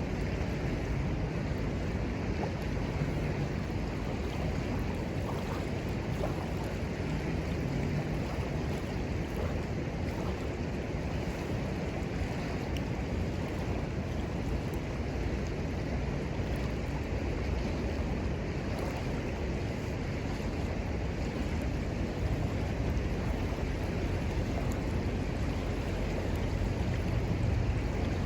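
Steady rushing noise of a flowing river, unbroken throughout, with a few faint ticks over it.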